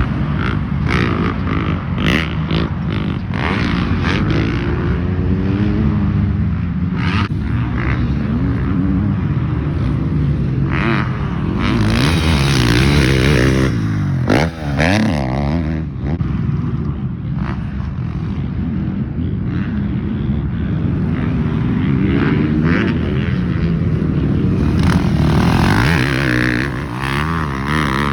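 Dirt bike engines on a motocross track, revving up and dropping back again and again as riders accelerate and shift.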